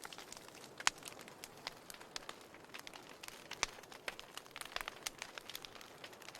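Burning firewood crackling: irregular sharp pops and snaps over a soft steady hiss of the flames, with the loudest pop about a second in.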